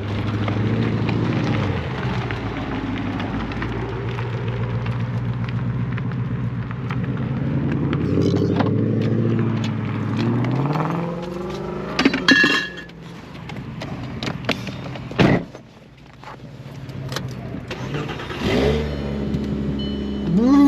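Car engines running, rising in pitch as they accelerate about halfway through and again near the end. There are a couple of sharp knocks in between.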